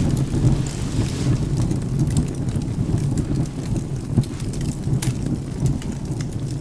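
Rain and a low, steady rumble of thunder, with sharp crackles and pops of a burning wood fire scattered through, one louder pop about four seconds in.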